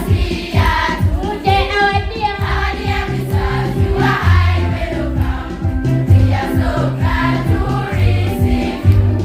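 A choir of voices singing a song with a steady beat and a bass line underneath.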